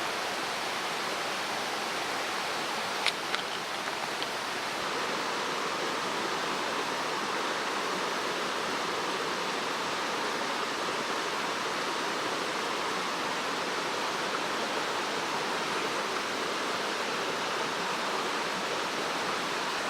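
Mountain stream rushing steadily, an even wash of water noise. A single sharp click about three seconds in.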